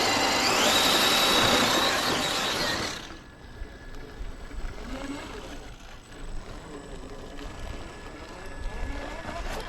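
Small electric motor and gear drivetrain of a scale RC crawler truck whirring softly and unevenly as it crawls. This follows a loud hiss that cuts off about three seconds in.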